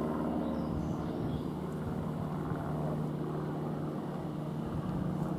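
Class 720 electric multiple unit train running with a steady hum over a low rumble.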